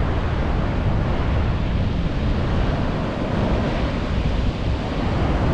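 Wind buffeting the microphone: a loud, rough rushing that starts suddenly just before and holds through, heaviest in the low end.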